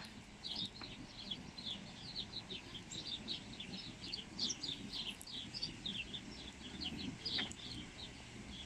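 Small birds chirping in the trees: a dense, unbroken run of short high chirps, several a second, over a low background murmur.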